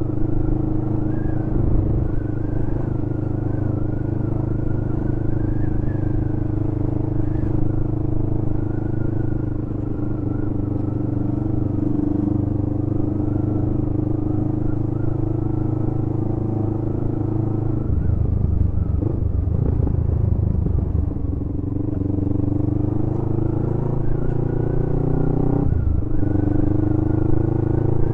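Motorcycle engine running as the bike is ridden, steady for most of the time; about two-thirds through the engine note breaks up, then rises as the bike accelerates, dropping suddenly near the end as a gear is changed.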